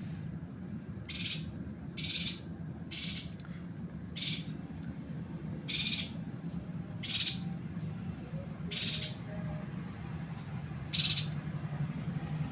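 A yuhina calling in short, high chirps, about eight of them at uneven intervals of roughly a second, over a steady low hum.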